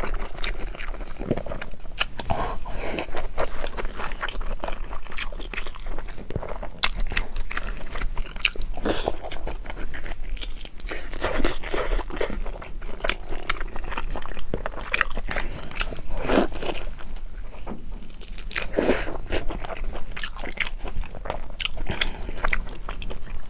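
Close-miked eating: a person biting and chewing meat, with many irregular crunchy bites.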